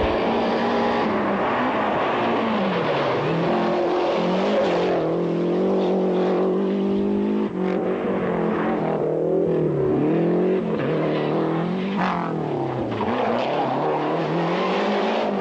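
Rally car engine driven hard, its pitch climbing and dropping again and again as it revs through gear changes.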